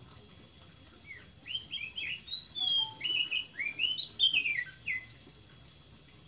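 A songbird singing a quick, varied run of chirping notes that swoop up and down. It starts about a second in and stops about five seconds in.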